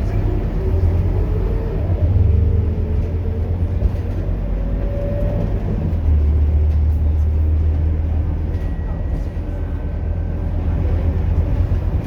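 Scania K230UB bus's engine running while under way, a low drone with a tone that climbs over the first few seconds as it picks up speed, getting louder again about six seconds in.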